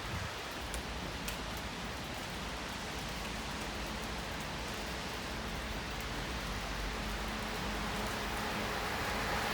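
Steady hiss of falling rain, with a faint low hum of an approaching train slowly growing louder toward the end.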